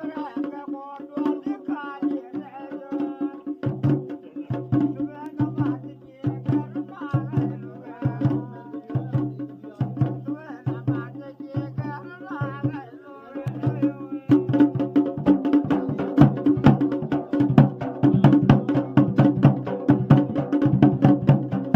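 Garhwali dhol and damau drums played together in a fast rhythm, with a wavering melody above the drums through most of it. About two-thirds of the way in the drumming becomes louder and denser.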